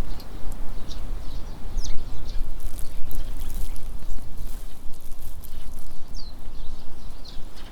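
Wind buffeting the microphone with a loud, continuous low rumble, while small birds give short, high chirps and a few quick downward-sliding calls.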